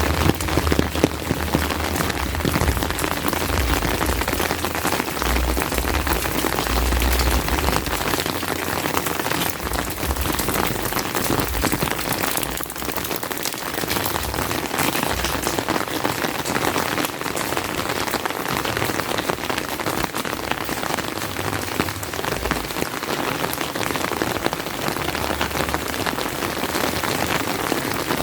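Steady, fairly heavy rain, a dense hiss of many drops pattering on surfaces. Low rumbles come and go during the first eight seconds or so.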